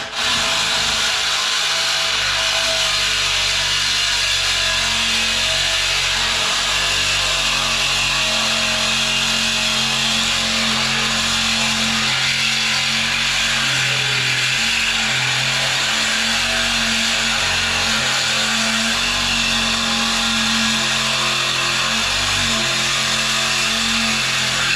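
Handheld electric abrasive power tool running continuously against stainless steel exhaust tubing: a steady hiss of abrasive on metal over the motor's hum, which shifts slightly as the load changes.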